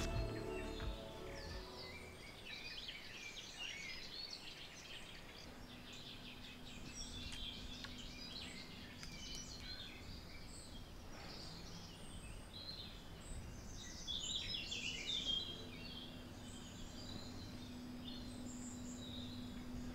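Birds chirping and singing in woodland: many short calls and trills, busiest about two-thirds of the way through. Music fades out in the first second or two, and a faint steady low hum comes in about five seconds in.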